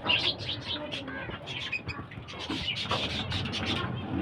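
Pet lovebirds chattering: rapid, overlapping short high-pitched chirps.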